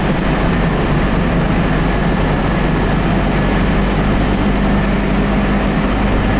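Scania DC9 9-litre turbocharged diesel engine of a bus running steadily, with a faint steady high whine above the drone.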